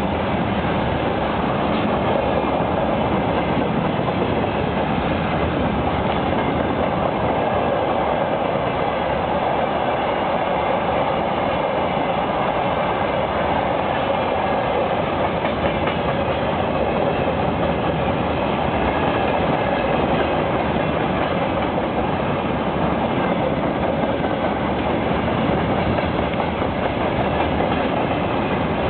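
Freight train wagons rolling past steadily, wheels clattering on the rails with faint high ringing tones over the rumble.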